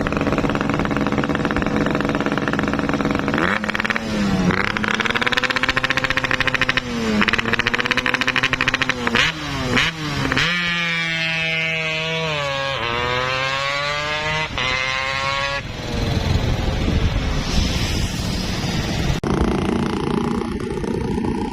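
Yamaha RX-King's single-cylinder two-stroke engine running through a Bobokan Padang aftermarket exhaust, its throttle blipped again and again so the exhaust note climbs and drops several times. In the middle one long rev sinks in pitch and then climbs back up.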